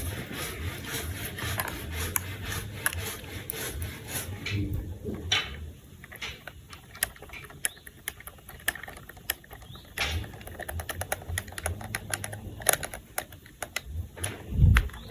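Plastic toy pieces being handled and fitted together, with a run of quick light clicks and taps over some rubbing, thickest near the end.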